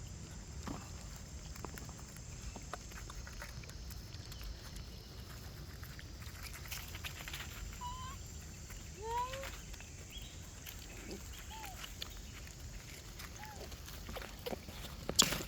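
A monkey giving five or six short, curved squeaky calls over a few seconds in the middle, with scattered small clicks and rustles. Just before the end comes a burst of loud sharp knocks.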